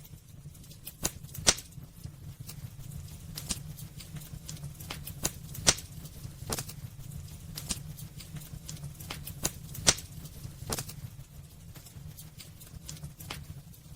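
Wood fire burning in a fireplace, crackling with irregular sharp pops, a few of them much louder than the rest, over a steady low rumble.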